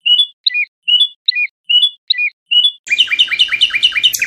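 A common nightingale singing: a run of about seven loud, evenly repeated whistled notes, then about three seconds in a fast rattling trill that steps up in pitch near the end.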